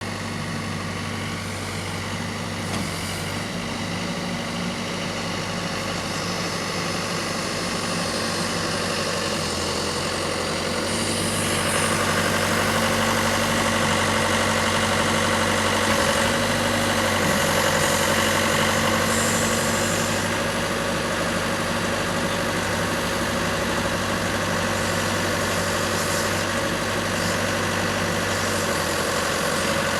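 Diesel engine of a 6-ton wheel excavator running steadily. From about twelve seconds in it gets a little louder and a higher whine joins it.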